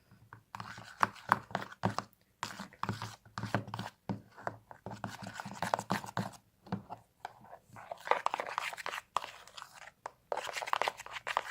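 Glue and shaving foam being stirred together in a bowl, with irregular crackling and scraping and a few short pauses.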